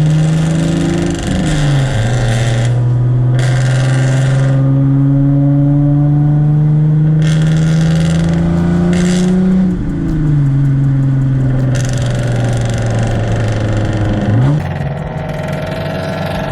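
A car engine running through a very loud exhaust under acceleration. The note climbs steadily in each gear and drops with gear changes about a second in and again around ten seconds, then rises quickly once near the end.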